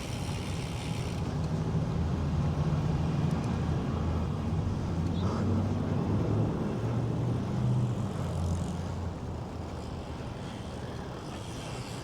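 Road traffic: a motor vehicle's engine running close by over road noise, louder through the middle and fading away after about nine seconds.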